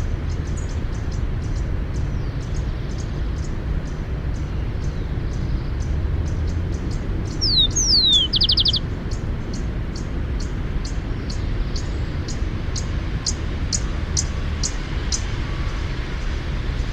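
Rufous-collared sparrow singing once about halfway through: two slurred whistles falling in pitch, then a short fast trill. Throughout there is a steady low rumble and a run of short high chips about twice a second, which grow louder and then stop shortly before the end.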